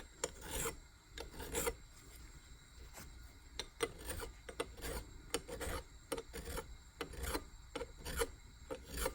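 Hand file rasping in repeated short strokes across the edge of a new ball joint, knocking down a small burr before it is pressed in.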